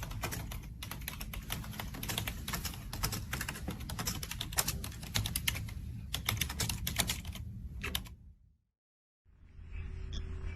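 Rapid, irregular clicking and tapping, many small clicks a second, that stops about eight seconds in.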